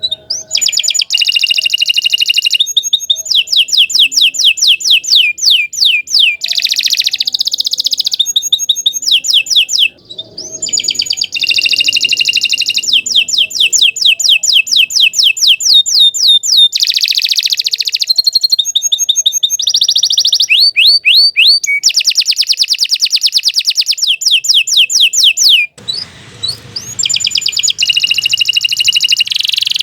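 Domestic canary singing a long, loud song of rapid high trills, one repeated phrase after another, each changing every second or two. The song breaks off twice, briefly.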